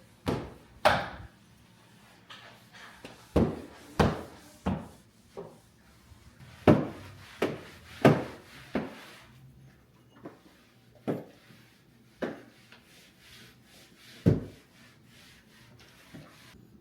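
A dozen or so irregular knocks and bangs of hard objects being bumped and set down, some with a short ringing tail, as household items are moved around during mopping.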